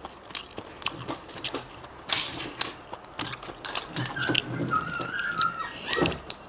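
Close-up eating of seasoned sea snails and shellfish: a rapid run of wet clicks, smacks and crunchy chewing sounds. A thin, steady whistle-like tone sounds for about a second and a half near the end.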